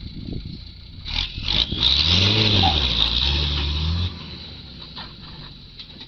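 A motor vehicle engine revving up and back down, then held for about two seconds before the sound drops away suddenly, over a steady hiss.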